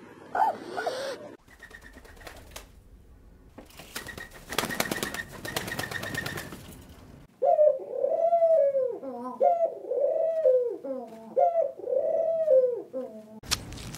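Feral pigeons cooing: a run of rising-and-falling coos, about one a second, in the second half. Before them there are several seconds of soft clicking and rustling.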